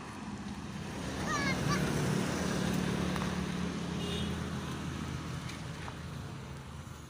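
Engine of a large vehicle running, swelling about a second in and fading toward the end, with a few short high chirps early on.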